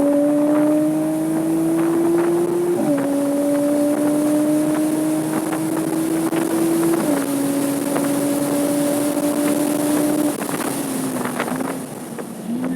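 Porsche Cayman S 3.4-litre flat-six pulling hard under full throttle, its pitch climbing steadily. It upshifts twice, about three and seven seconds in, then drops in pitch and loudness as the driver lifts off near the end. Wind noise runs throughout.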